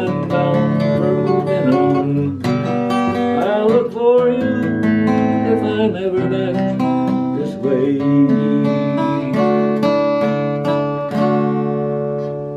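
Acoustic guitar strummed in the closing bars of a folk song, dying away near the end.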